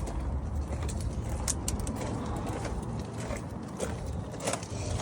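Outdoor background noise: a steady low rumble with a few faint, short clicks and brief sounds scattered through it.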